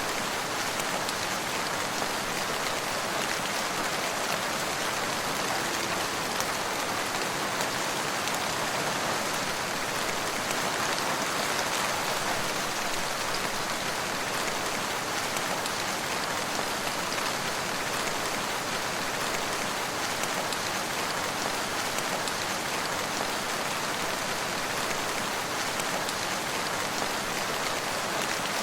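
Steady rainfall, an even hiss of many drops on a surface with no pauses or changes in intensity.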